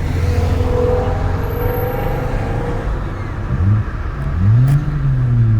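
A car engine running, revved twice in the second half, its pitch rising and falling back.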